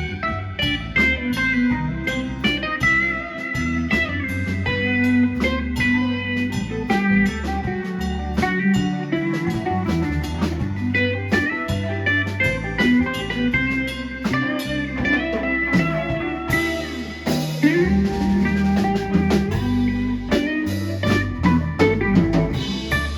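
Live blues-rock band playing an instrumental break: a guitar lead with bending notes over bass guitar and a drum kit, with cymbals crashing about sixteen seconds in.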